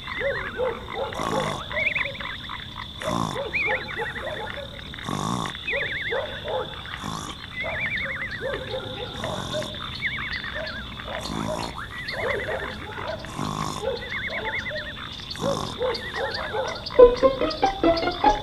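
Night ambience of frogs croaking in calls that repeat about every two seconds, over a steady high-pitched trill.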